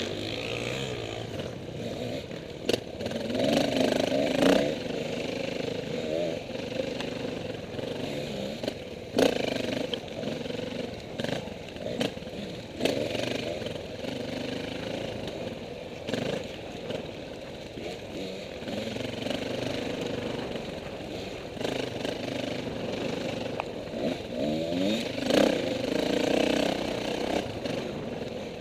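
KTM 450 dirt bike's single-cylinder four-stroke engine running off-road, the revs rising and falling with the throttle and climbing sharply about four seconds in and again near the end. Scattered knocks and clatter break through.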